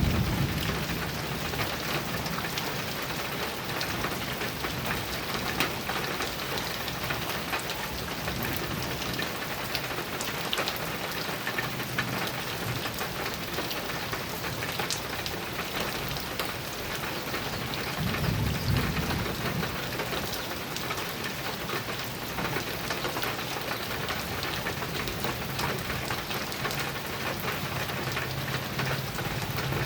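Heavy rain falling steadily on a metal roof, with a low rumble of thunder a little past the middle.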